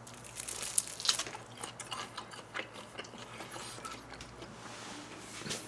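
A person biting into a thick chunk of raw yellowtail sashimi and chewing it, with many small wet mouth clicks at an irregular pace.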